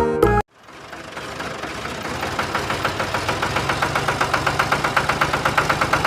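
Engine running with an even, rapid knocking beat, fading in and growing louder, typical of a small tractor engine.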